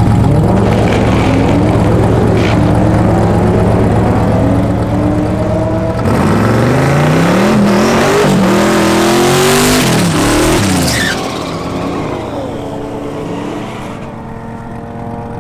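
Twin-turbo 408 cubic-inch LS V8 drag car doing a burnout in the water box, revving up and down in repeated rising sweeps, hardest about halfway through. After that the revs fall away and the engine goes quieter as the car rolls off down the lane.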